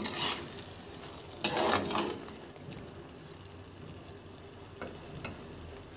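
Thick masala paste sizzling in a pan as it is slow-fried for chicken kasha, with a metal spatula scraping through it twice in the first two seconds. After that a quieter steady sizzle with a few light clicks.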